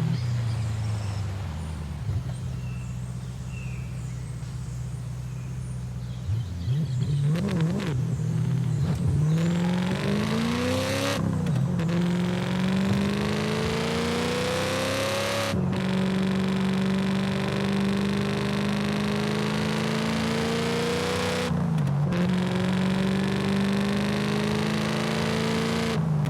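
Audi RS4 engine pulling hard up through the gears: the pitch climbs, drops sharply at two upshifts, then holds steady at a cruise, with a brief dip and recovery near the end.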